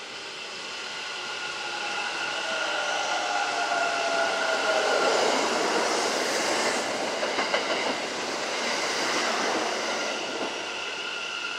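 Kintetsu electric train passing through the station. It grows louder over the first few seconds, with a motor whine that falls in pitch, then wheels clatter over the rail joints at its loudest, about halfway through, before it eases off.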